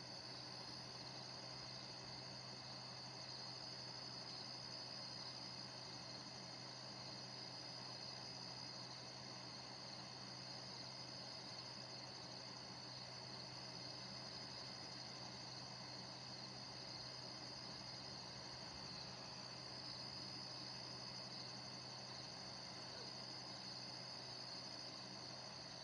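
Crickets chirping in a steady, continuous high trill, over the low, even hum of a neighbour's air conditioner running.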